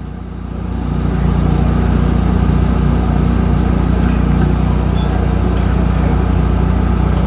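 An engine running steadily at idle, a low hum that swells over about the first second and then holds even, with a few faint clicks later on.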